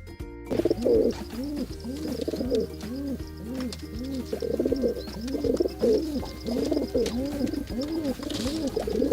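Pigeons cooing: a steady run of repeated low coos, each rising and falling in pitch, starting about half a second in.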